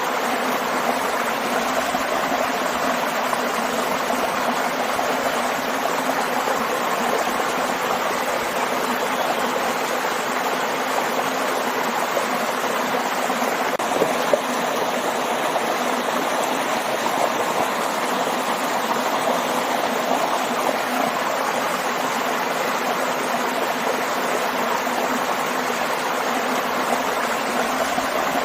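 Waterfall and stream water rushing and splashing in a steady wash, with a brief small click about halfway through.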